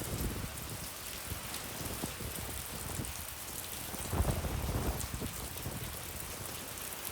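Heavy rain pouring steadily, with gusts of wind rumbling on the microphone; a stronger gust comes about four seconds in.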